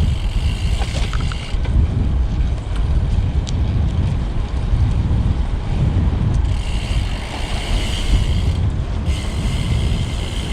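Wind buffeting the microphone of a camera on a moving road bike, a loud, low rumble throughout. A higher hiss joins in about six and a half seconds in.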